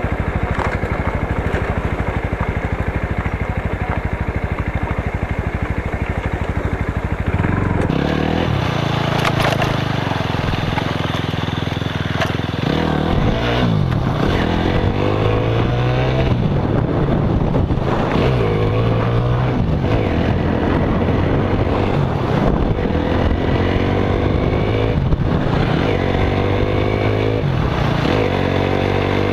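Motorcycle engine idling with a quick, even pulse, then pulling away about seven seconds in and running through the gears, its pitch repeatedly climbing and dropping back at each shift.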